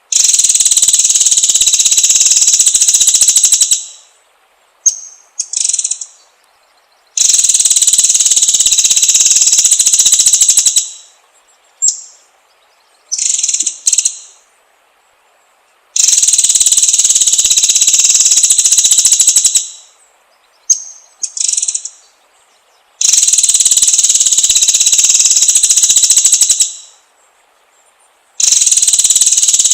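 Birdsong lure recording of white-rumped shama (murai batu): loud buzzing trills about three and a half seconds long, repeated about every seven seconds, with short high chirps between them.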